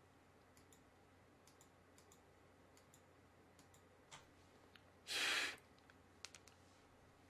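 Faint, scattered computer clicks from a desk setup, such as mouse or keyboard clicks, over quiet room tone, with a single half-second rush of breath-like noise about five seconds in.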